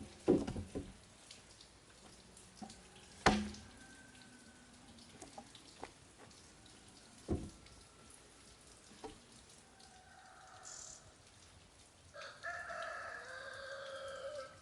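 A few sharp knocks, the loudest about three seconds in, then a long bird call of about two seconds near the end.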